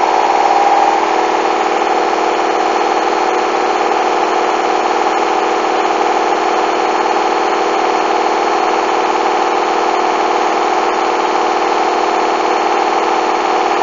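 Hoover washing machine's drum and motor whirring at a steady spin speed with an unbalanced load of bedding. A higher whine fades out about a second in.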